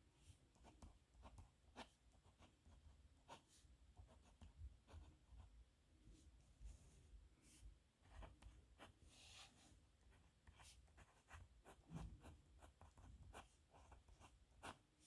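Faint pen nib scratching across paper in short, irregular strokes, with little clicks as the pen lifts and touches down.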